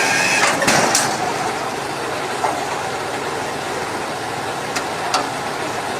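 Dump truck engine running steadily, with a few sharp knocks or clanks in the first second and two more near the end.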